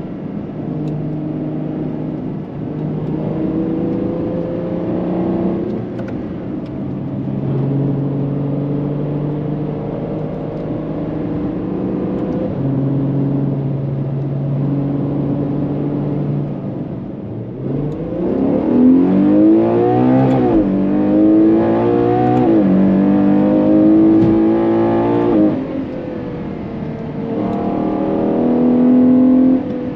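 Ferrari Purosangue's naturally aspirated V12 engine running at a steady cruise, then from about eighteen seconds in revving hard under acceleration, its pitch climbing and dropping sharply several times as it shifts up through the gears.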